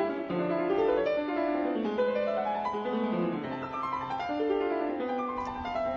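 Background piano music, a flowing melody of sustained notes.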